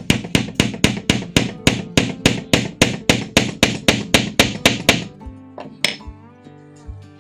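A hammer striking wood in quick, even blows, about four a second, stopping about five seconds in, over background music.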